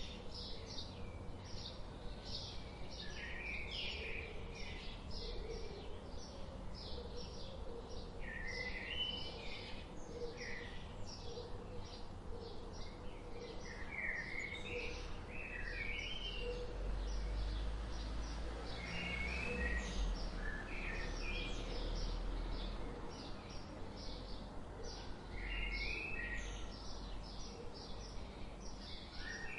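Several birds chirping and twittering in quick, overlapping calls and short trills, with a low rumble underneath around the middle.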